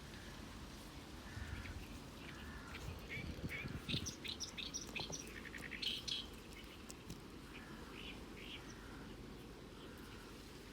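Birds chirping and calling faintly, with a busier run of quick chirps in the middle, over a low steady outdoor background.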